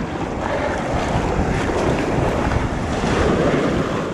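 Wind buffeting the microphone over the sound of sea waves and water washing, with an uneven low rumble.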